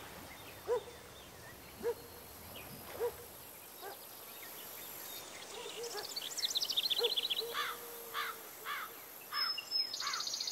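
Birds calling over a faint outdoor hush: a low call three times about a second apart, then a fast high trill about six seconds in, followed by a run of quick repeated chirps about twice a second.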